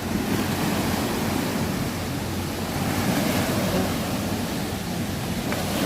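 Small river waves slapping and washing in a steady, continuous wash of water.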